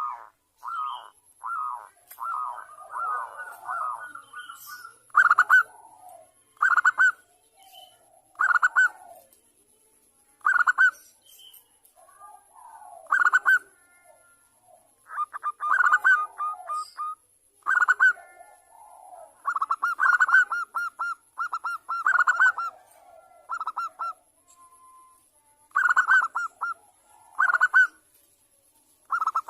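Zebra doves (perkutut) cooing: short bursts of rapid staccato notes repeated about every two seconds, with softer, lower coos in between.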